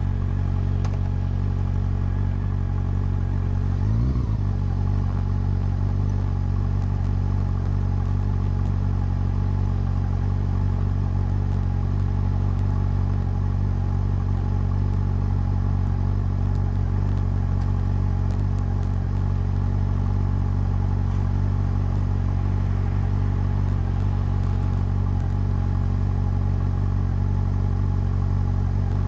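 Exhaust of a Honda CB400 Super Four's inline-four engine running steadily, with a brief change in pitch about four seconds in.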